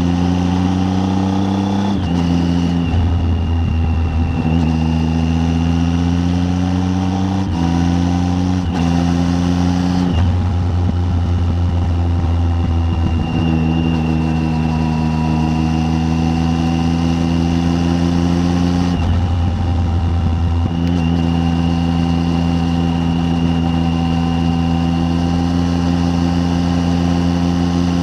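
Triumph Tiger 800's three-cylinder engine running on the road. Its note climbs steadily and then drops sharply at gear changes, several times over.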